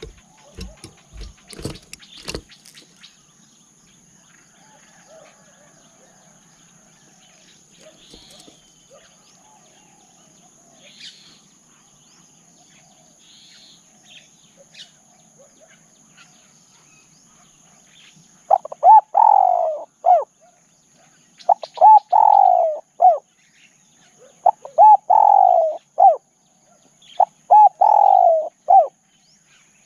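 Spotted dove cooing: a loud phrase of three or four falling coos, repeated about every three seconds from two-thirds of the way in. Before that there are a few knocks at the start, faint chirps of small birds and a steady high insect-like whine.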